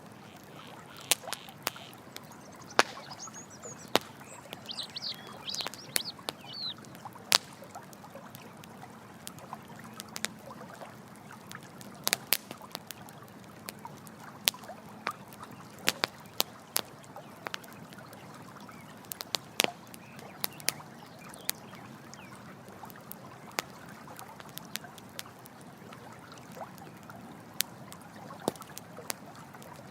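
Campfire crackling with irregular sharp pops over a steady rush of running water. About five seconds in, a brief run of high animal calls.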